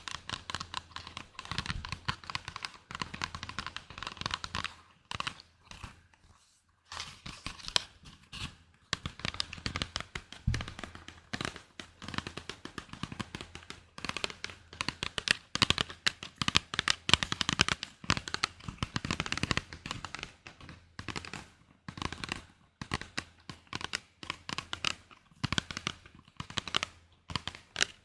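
Close-miked ASMR trigger sounds: rapid, irregular clicks and rustles, like crinkling or scratching, with a short break about six seconds in.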